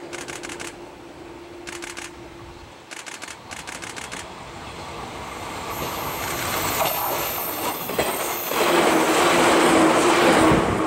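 Shinano Railway 115-series electric train coming off a steel truss bridge and passing close on a curve. First come quick groups of wheel clicks over the rail joints. Then the running noise builds to its loudest near the end as the cars go by, with a thin high wheel squeal on the curve partway through.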